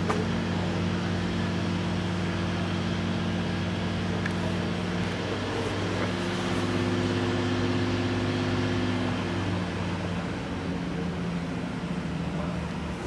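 A fire engine's diesel engine running steadily, its tone shifting about halfway through and again near the end.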